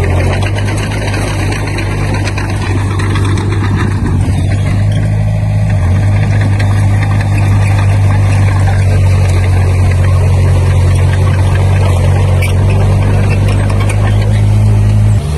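Komatsu D20P bulldozer's diesel engine running steadily with a deep, constant hum. The hum drops abruptly in pitch and level near the end.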